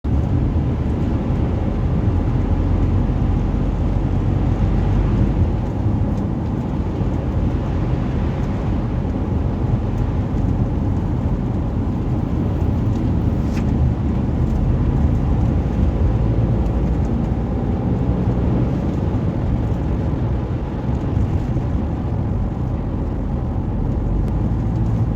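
A car driving along, with steady engine and road noise that is heaviest in the low range.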